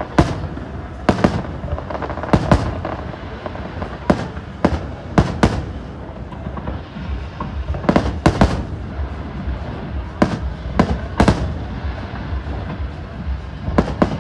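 Fireworks display: aerial shells bursting with sharp bangs, often in quick pairs or clusters, every second or so. A steady rumble of the watching crowd runs under them.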